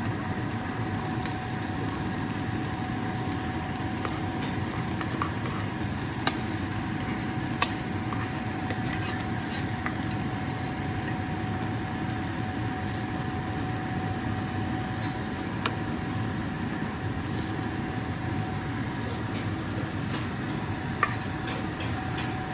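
A metal spoon scraping and clinking against a cooking pot as half-cooked rice is spooned in over prawn masala, with a dozen or so sharp clicks scattered through, over a steady background hum.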